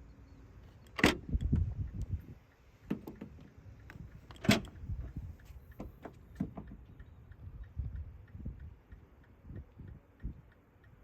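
Two sharp knocks about three and a half seconds apart, among lighter clicks, rattles and low thuds of something being handled.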